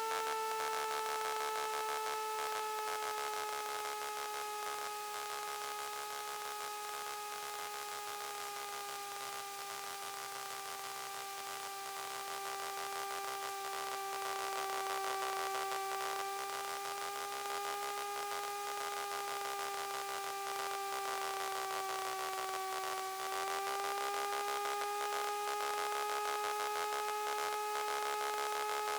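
Kitfox light aircraft's engine and propeller droning steadily in flight. The pitch sags slightly, then steps back up about three quarters of the way through as power is added.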